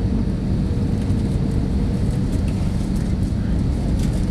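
Airbus A318 passenger cabin noise: a steady drone of engines and airflow with a low, even hum.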